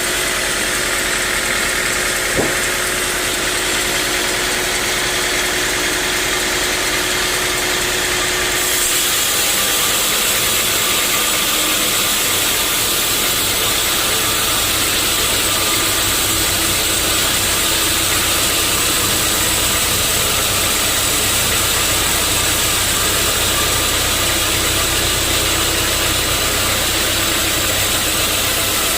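Sawmill machinery running steadily with a loud engine-like drone; about a third of the way in the sound changes abruptly and becomes heavier and deeper.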